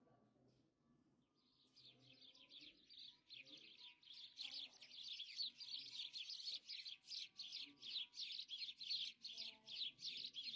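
Birds chirping in a dense, rapid stream of high, quickly repeated notes, starting faint about a second and a half in and growing louder.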